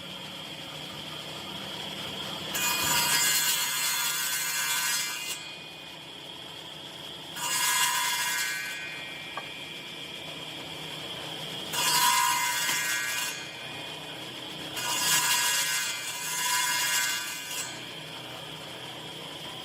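A woodworking power tool runs steadily, with four louder passes of cutting into wood, each lasting one and a half to three seconds.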